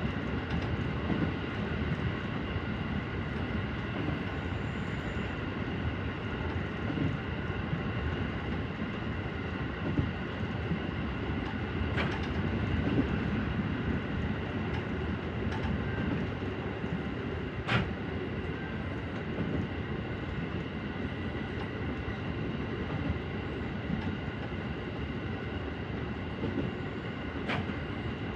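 JR 313 series electric train running along the line: a steady rolling rumble with several constant whining tones. A few sharp clicks come through, one about twelve seconds in, one near eighteen seconds and one near the end.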